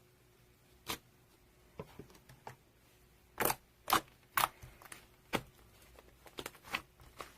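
Slime being squeezed and stretched by hand, making sharp sticky pops and clicks: three loud ones about three and a half to four and a half seconds in, with scattered softer ones around them.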